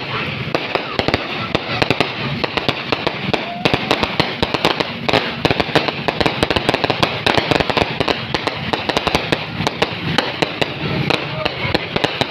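Fireworks going off: a dense, continuous crackle of many overlapping bangs and pops, several each second.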